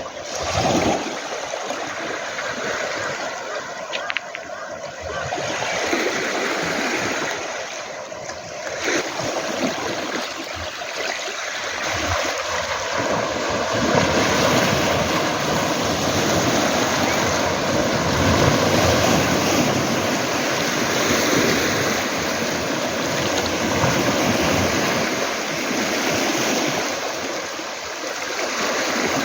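Sea waves washing onto a pebble beach, a steady rush of surf that grows louder about halfway through.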